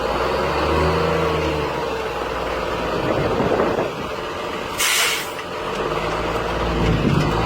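Heavy dump truck engine running, with a short burst of air hiss about five seconds in, typical of a truck's air brake releasing.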